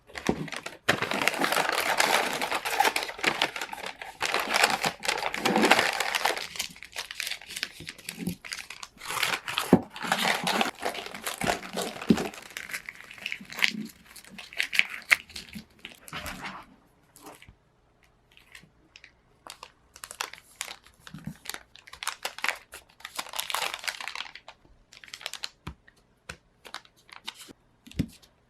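Wrapping material crinkled and rustled by hand while a gift is handled and packed: a dense stretch of crinkling for the first several seconds, then on-and-off crinkles and small clicks that grow sparser toward the end.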